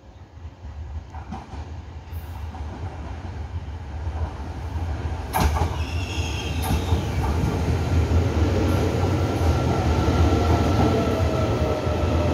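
Taiwan Railway electric multiple-unit commuter train pulling into the platform, its rumble growing steadily louder as it approaches. There is a sharp click about five seconds in, a brief high squeal just after, and a faint falling whine near the end as it slows.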